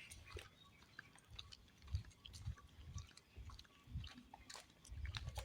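Footsteps on a forest trail: soft low thuds about every half second, with faint crunching and crackling underfoot.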